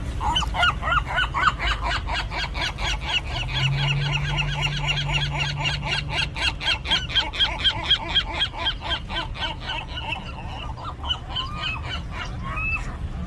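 Gulls calling in a rapid run of harsh, repeated notes, about five or six a second, slowing near the end into a few separate drawn-out calls, as two gulls contest turf.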